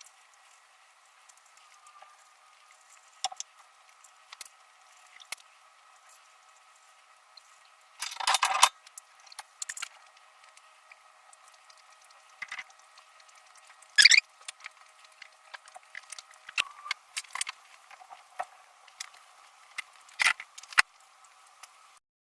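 A campfire being lit with paraffin-soaked cotton fire starters: scattered small crackles and clicks, with short louder bursts about 8, 14 and 20 seconds in, over a faint steady whine.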